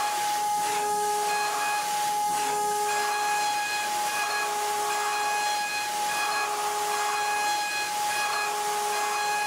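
A machine's steady high-pitched whine over a continuous hiss. A second, lower tone and some higher tones cut in and out about once a second.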